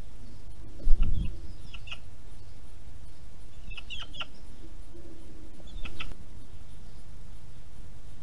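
A low thump about a second in, then short, sharp bird calls three or four times, spaced a couple of seconds apart.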